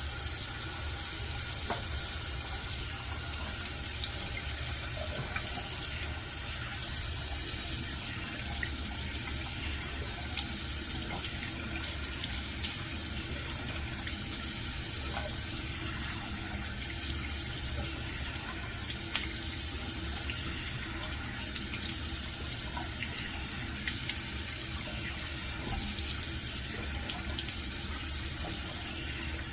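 Bathroom tap running steadily into a sink, with light splashing, as the face is rinsed after a shave.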